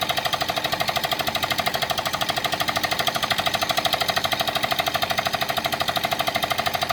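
Rapid-impact air hammer pounding a pile into the ground: fast, even blows, roughly ten a second, with a metallic ring, steadily driving the pile down.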